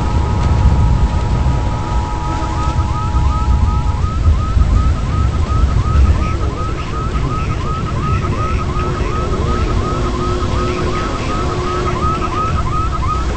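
Heavy wind rumble with a repeating electronic chirp, about three a second. A steady two-note tone sounds alongside and stops about four seconds in.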